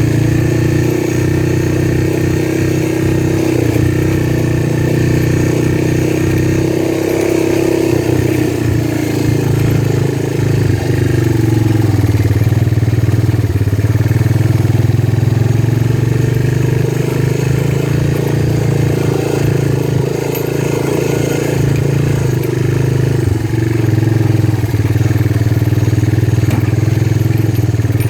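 Small motorcycle engine running steadily, its pitch rising and falling slightly as the throttle changes.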